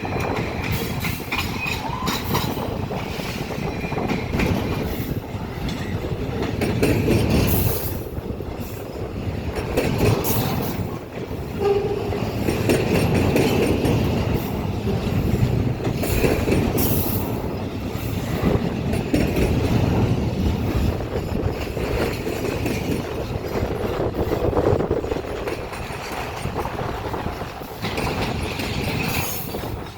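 An intermodal freight train rolling past at close range, its wheels clacking over rail joints in an uneven rhythm, with a faint high wheel squeal at times.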